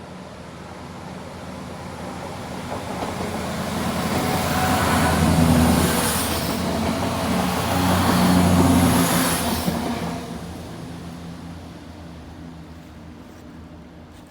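Diesel multiple-unit train approaching and passing close by, with two loud surges a few seconds apart, then fading away as it runs into the tunnel.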